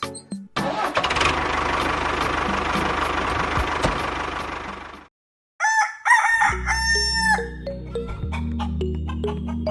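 A steady rushing noise runs for about four and a half seconds and cuts off suddenly. After a brief silence a rooster crows, with music underneath that has a steady low bass.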